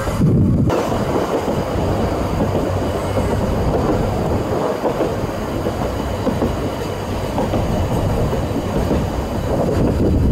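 2 ft gauge narrow-gauge train running along the track, heard from an open carriage window: a steady running noise of wheels on rails, with most of its weight low down.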